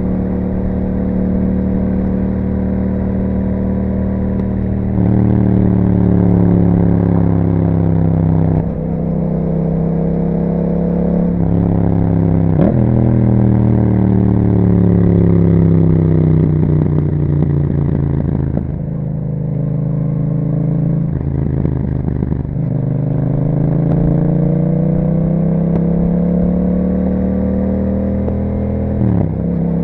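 2021 Yamaha MT-07's parallel-twin engine through an Akrapovic exhaust with a dB killer, heard while riding. The engine's pitch climbs and drops over several stretches, with brief breaks at the gear changes.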